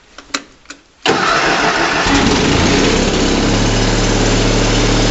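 A few sharp clicks, then about a second in the Kohler engine of a Simplicity Sunstar garden tractor cranks and fires on a cold start, settling within a couple of seconds into a steady idle.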